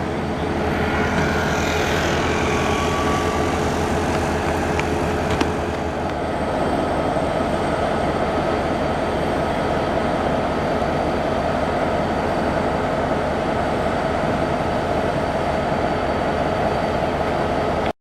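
A diesel train running, a steady dense rumble of engine and rail noise, with faint high squealing tones in the first few seconds.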